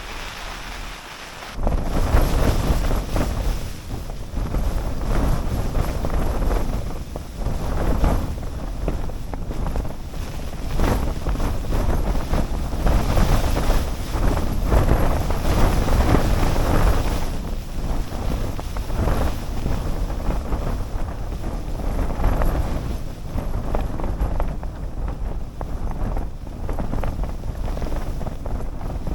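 Snowstorm wind gusting in strong surges, with heavy wind rumble on the microphone. It gets much louder suddenly about a second and a half in.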